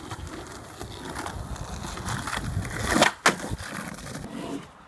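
Skateboard wheels rolling on concrete, growing louder, then two sharp wooden clacks about three seconds in as the board is popped and slaps down in a trick attempt. The rolling then goes on more quietly.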